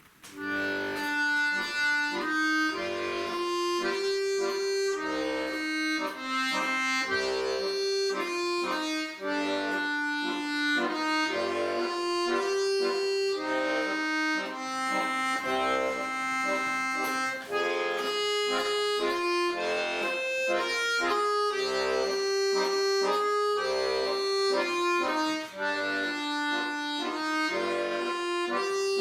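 Accordion playing a tune: sustained melody notes and chords over a regular bass, starting just after the beginning.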